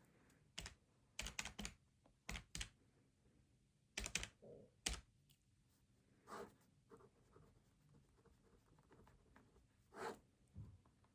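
Keys being pressed in short, irregular runs of quiet clicks, a few at a time with pauses between.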